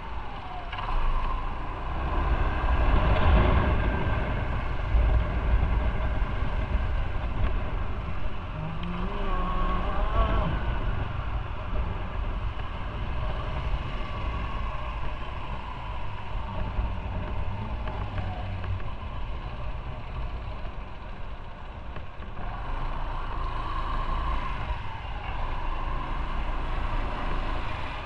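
Motorcycle riding on the road: the engine runs under a heavy low rumble of wind on the microphone. Its pitch rises and falls with speed, and it is loudest about three seconds in.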